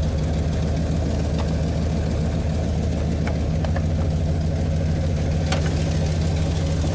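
Old plow truck's engine idling steadily, with a few faint ticks.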